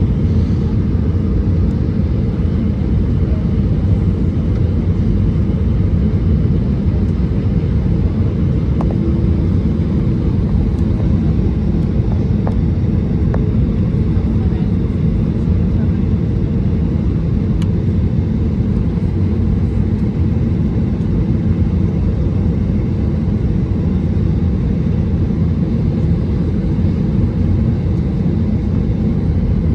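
Steady, low-pitched cabin noise of an Airbus A320-214 airliner: engine and airflow noise heard from inside the cabin.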